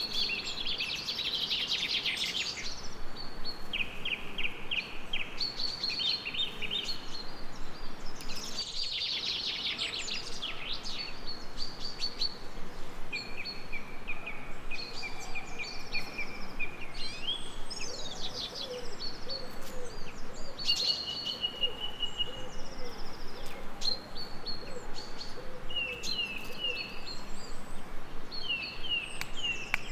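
Several songbirds singing in overlapping phrases of quick trills and chirps, over a steady background hiss.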